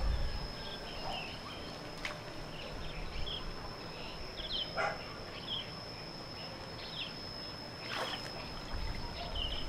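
Quiet outdoor ambience: small birds chirping in short scattered calls over a steady high-pitched insect drone, with a few faint clicks.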